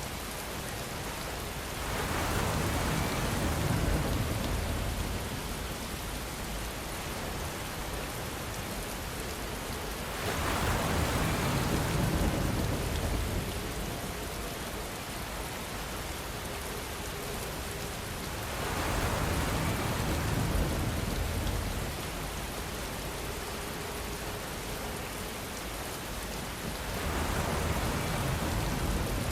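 Steady rainfall, an even hiss of drops, swelling louder and fuller about every eight seconds for a few seconds at a time before settling back.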